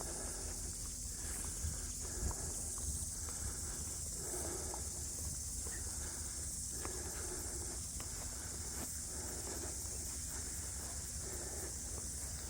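Steady high-pitched insect chorus, with soft footsteps on a bush track underneath at a walking pace.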